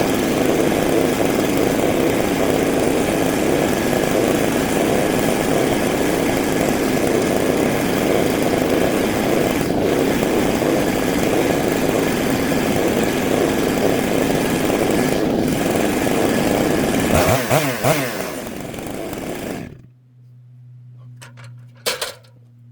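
Stihl MS 661 two-stroke chainsaw running at full throttle, cutting black walnut on an Alaskan chainsaw mill. About three quarters of the way through the revs change and then the sound cuts off suddenly, leaving a faint low hum with a couple of sharp clicks near the end.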